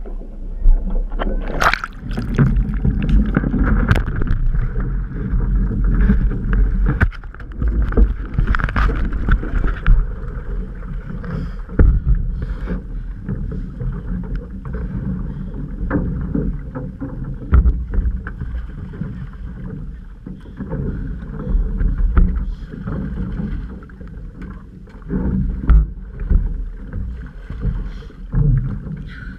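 Outrigger canoe under way, heard from a GoPro on board: water rushing and splashing along the hull over a steady low rumble, with scattered sharp knocks and splashes.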